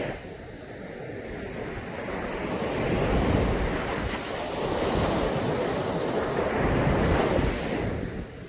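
Sea waves breaking and washing up a beach, swelling about three seconds in and again a couple of seconds later, then falling away near the end, with wind rumbling on the microphone.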